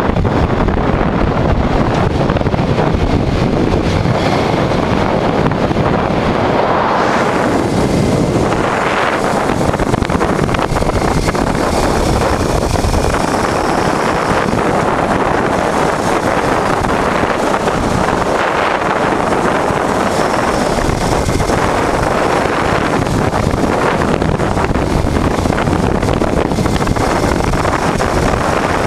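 Wind rushing over the microphone of a moving motorcycle, with the 1988 Honda Transalp's V-twin engine running underneath at a steady cruise.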